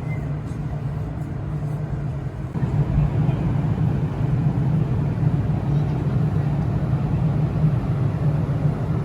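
Steady low engine drone of a vehicle. It grows louder about two and a half seconds in and cuts off abruptly at the end.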